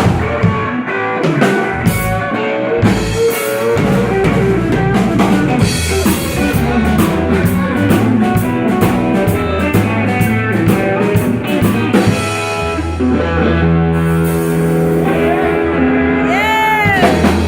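Live blues-rock band playing guitar over a drum kit, with steady cymbal and drum hits. In the last few seconds the band settles into long held notes with a high sliding, bending note near the end as the song closes.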